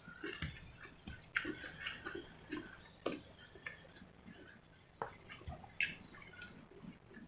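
Eating sounds: scattered chewing and mouth sounds with a few sharp clicks spread through.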